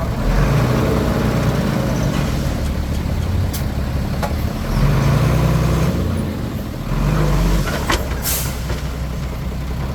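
Komatsu D21P crawler bulldozer's diesel engine working, swelling in level several times as it takes load, with a few sharp metal clanks and a short high hiss about eight seconds in.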